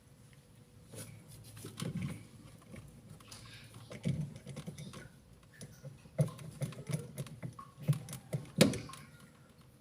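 Irregular clicks and knocks of washing-machine parts being handled and fitted back together during reassembly of the drain seal, with the loudest knock near the end.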